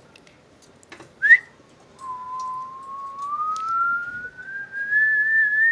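Whistling: a short upward chirp, then a single long whistle that slowly rises in pitch.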